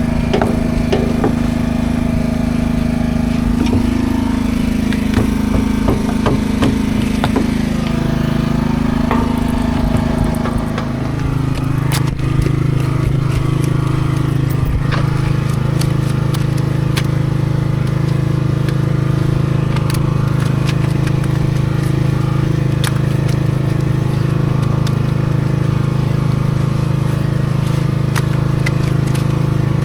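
Peterbilt 379 truck's diesel engine running steadily under way; about eleven seconds in its note drops to a lower pitch and holds there.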